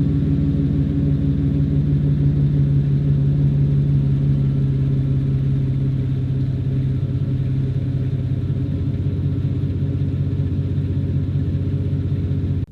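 2017 Chevy Silverado's 4.3-litre V6 idling steadily through an aftermarket MBRP dual exhaust with a custom tune, a deep, loud exhaust rumble. The sound stops abruptly at the end.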